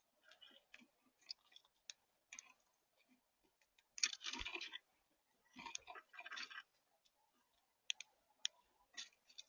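Birds at a feeder pecking and cracking seeds, heard as scattered sharp clicks and taps, with two louder rustling bursts about four and six seconds in.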